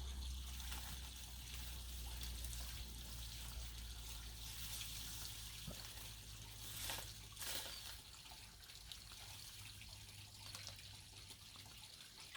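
Faint water trickling and dripping, with a steady low hum underneath and two brief louder splashes or swells about seven seconds in.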